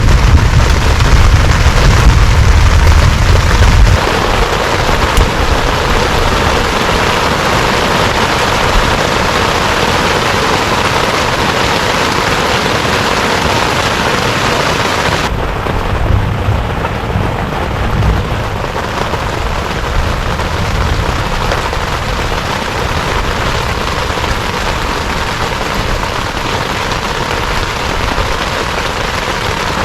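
Heavy rain pouring steadily, a loud, dense hiss. A deep low rumble runs under it for the first few seconds. The rain's tone changes abruptly about four seconds in and again around the middle, turning duller.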